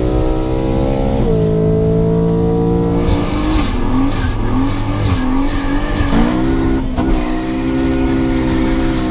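Car engine heard from inside the cabin during a quarter-mile drag run, running hard with its pitch dropping suddenly about a second in and again near seven seconds, as at gear changes. From about three seconds in, loud wind and road noise join it.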